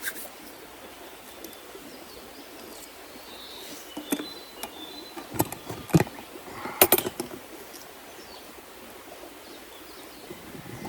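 Outdoor forest ambience: a steady background hiss with a faint bird chirp, and a handful of sharp clicks and knocks in the middle, the loudest about seven seconds in.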